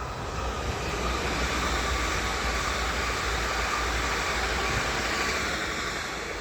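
PKP Intercity ED161 (Pesa Dart) electric multiple unit passing at speed: a steady rush of wheel and air noise that swells in the first second and begins to fade near the end.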